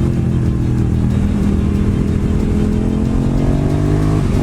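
KTM 1290 Super Duke R V-twin motorcycle engine pulling at fairly steady revs on the road, the pitch easing slightly and then climbing again near the end, with wind rush over it.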